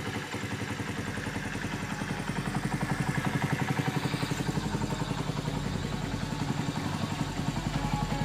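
Honda Monkey's single-cylinder four-stroke engine running steadily at low revs with an even, rapid beat, getting a little louder about three seconds in.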